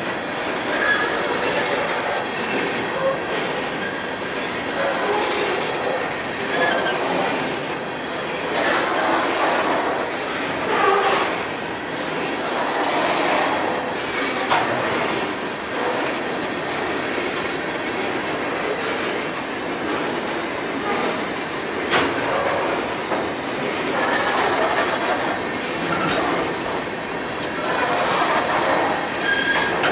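Coal train's gondola cars rolling steadily past close by, their steel wheels clattering on the rails with scattered sharp clicks over joints, and now and then a brief faint wheel squeal.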